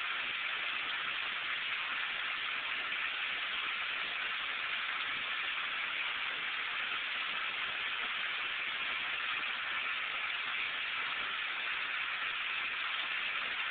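Steady, even hiss, strongest in the upper-middle range, with no distinct sounds standing out of it.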